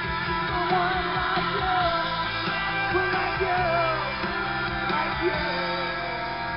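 Live rock band with a male vocalist singing over guitar and drums, played loud through a PA system.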